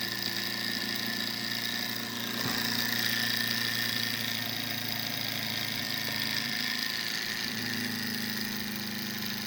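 Small desktop Stirling (hot-air) engine running at high speed, a steady mechanical whir with its pitch shifting slightly a couple of times. It is running fast enough to vibrate and creep across the desk.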